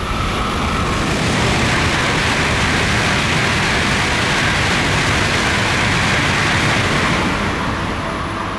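Tokaido Shinkansen train passing through the station at high speed without stopping: a loud, even rush of air and running noise that comes in suddenly and fades away near the end.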